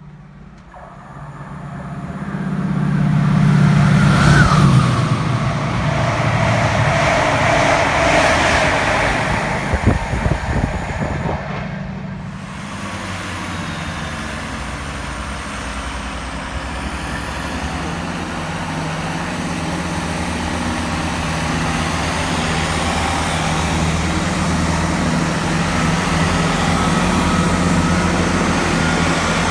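Diesel train running close by: its engine note builds over the first few seconds and stays loud. After a short break about twelve seconds in, the engine runs steadily under a high whine that rises slowly.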